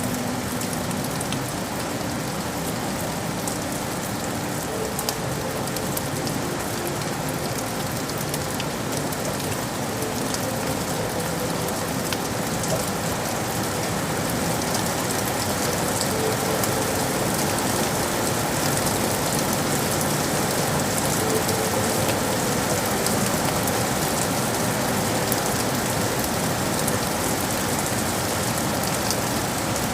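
Steady rain falling on city surfaces: a dense, even hiss sprinkled with countless small drop ticks. A faint low hum runs underneath.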